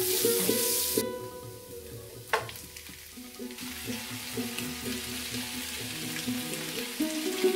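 Food sizzling in hot oil in a frying pan, first sliced onions being stirred with a spatula, then mutton pieces with sliced onions dropped on top. The sizzle drops away after about a second, a single sharp clatter comes a little later, and a quieter sizzle returns near the middle.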